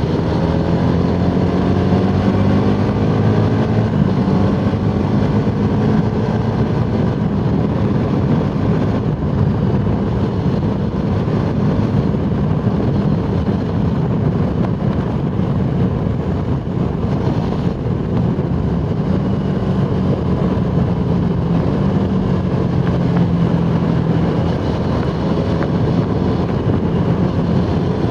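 Suzuki Gixxer SF 250's single-cylinder engine running hard on the move, its pitch rising over the first few seconds as it accelerates, then holding steady, over a constant rush of wind noise.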